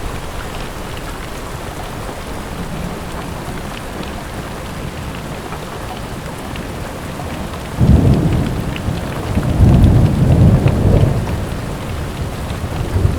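Steady rain with small ticks of individual drops. About eight seconds in, a low rumble of thunder swells up and lasts a few seconds before fading back under the rain.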